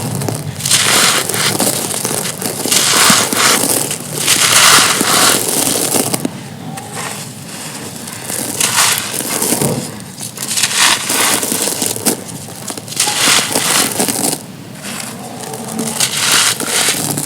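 Thin, soft, dusty stony slabs crumbling and crushing, a gritty crunching crackle that comes in repeated bursts of a second or two with short pauses between.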